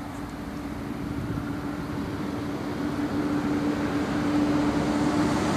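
A steady mechanical hum with one constant low tone over a noisy rush, growing gradually louder.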